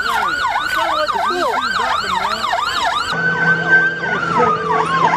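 Police car sirens on yelp, a fast rising-and-falling wail about three cycles a second, overlapping a second siren whose held tone slides down in pitch near the end.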